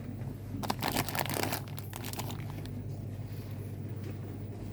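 Plastic packaging crinkling as it is handled, a burst of rustling lasting about a second and a half, over a steady low hum.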